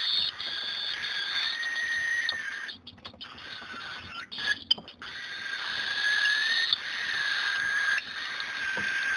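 Baby cockatiels making their steady, buzzing food-begging call at feeding time. The call breaks off for about two seconds in the middle, with a few sharp clicks, then resumes.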